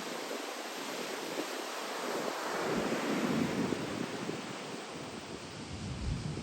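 Typhoon swell breaking at a surf point: a steady rush of surf and wind that swells about halfway through. Low wind buffeting on the microphone comes in near the end.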